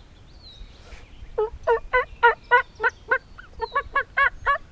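Wild turkey calling in a rapid series of loud, evenly spaced notes, about three a second, starting about a second and a half in.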